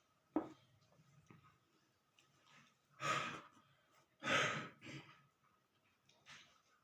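Two loud sighing breaths, each about half a second long, close to the microphone, with a few softer breath sounds after them. A single sharp click comes just before them.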